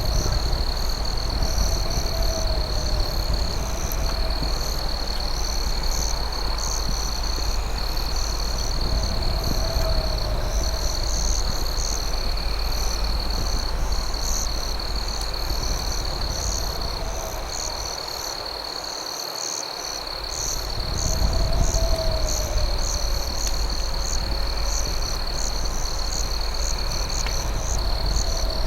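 Night insect chorus: crickets holding a steady high trill with quicker pulsing chirps above it, joined now and then by a lower warbling call, over a dense low rushing noise that drops away briefly about two-thirds of the way through.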